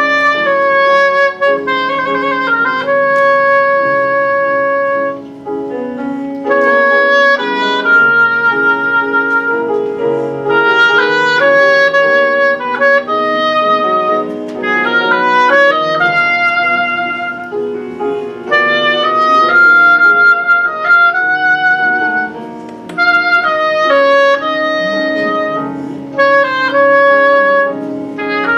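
Clarinet playing a slow melody of long held notes over piano accompaniment.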